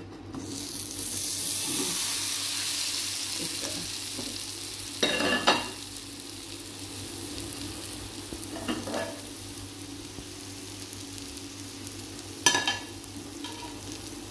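A besan cheela (gram-flour pancake) sizzling in oil in a nonstick frying pan as it is slid back in to cook its second side. The sizzle swells just after it lands, then settles to a steady fry, with two brief knocks, one about five seconds in and one near the end.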